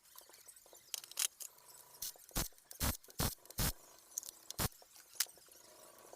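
A run of about a dozen sharp clicks and knocks, irregularly spaced and bunched together in the middle, from tools and parts being handled while an Isuzu 4HK1 diesel engine is taken apart.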